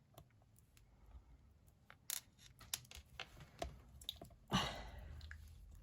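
Light scattered clicks and taps of craft materials being handled on a desk, with a short rustle about four and a half seconds in.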